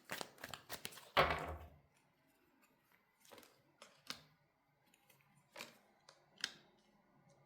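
Tarot cards being handled: quick papery clicks and rustling for about two seconds, with a louder rustle and a soft thump about a second in, then a few separate single card snaps spread over the rest.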